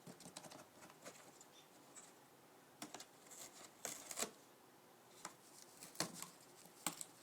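Umbrella cockatoo's beak chewing and tearing at a cardboard box: faint, irregular crunches and snaps, with a few sharper ones about four and six seconds in.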